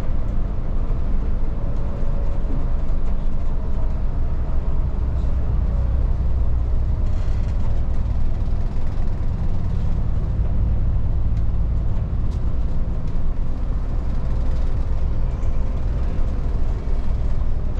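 Volvo 8900 city bus under way, heard from inside: steady engine drone and road rumble with small rattles.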